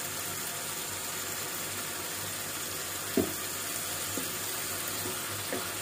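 Tomato-and-onion tadka frying in desi ghee in a frying pan, a steady sizzling hiss, with one short knock about three seconds in.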